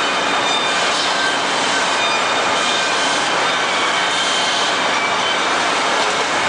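Plier-polishing machines running: a steady loud hiss with a few thin high whines, as pliers are hand-polished against the wheels and belts.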